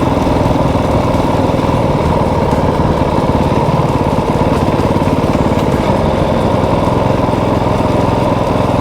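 Motorcycle engine running at a steady, unchanging speed while being ridden, a fast even putter of firing pulses.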